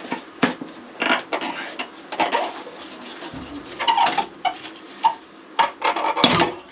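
Hand tools clinking, knocking and scraping on metal plumbing fittings as a stubborn fitting is worked loose: a series of irregular knocks and rasps, loudest near the end.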